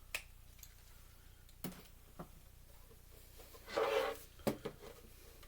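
Scattered light clicks and knocks from handling the loosened casing and parts of a Blu-ray player being taken apart, with a short scraping sound about four seconds in.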